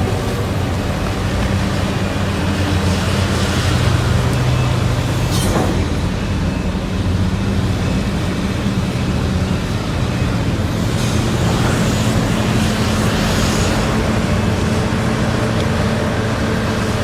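Heavy diesel engines of large mining excavators and haul trucks running steadily, with a sharp knock about five and a half seconds in and a brief hissing rush a little past halfway.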